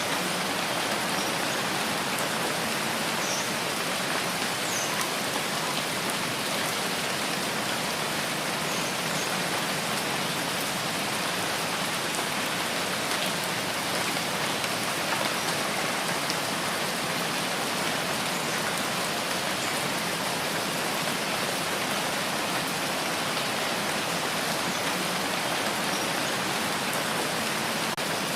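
Steady rain falling, an even hiss of drops with a few faint patters on a surface.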